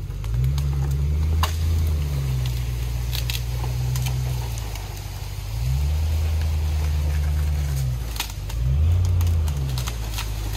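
Old Land Rover Discovery engine pulling at low speed, its pitch rising and easing several times as the driver works the throttle. Scattered sharp crackles come from the tyres crunching over the trail.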